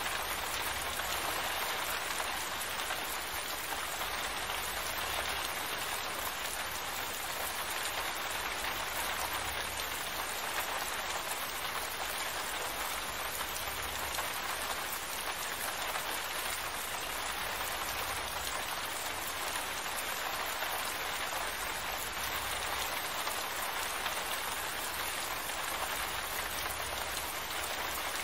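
Steady rain falling, an even hiss of drops that holds at the same level throughout with no let-up.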